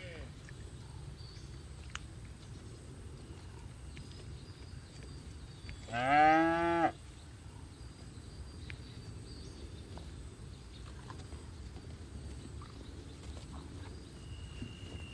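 A cow mooing once, about six seconds in: a loud call of about a second that rises in pitch and then holds. The end of another moo is heard at the very start, over a steady low background noise.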